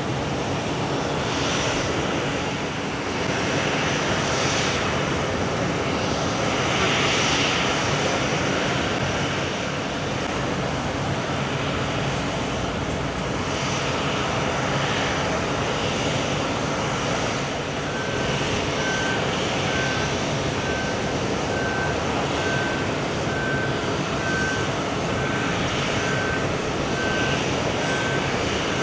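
Boeing 777-200's Pratt & Whitney PW4074 turbofan engines running with a steady, even noise. About two-thirds of the way in, a faint high beep starts repeating a little over once a second.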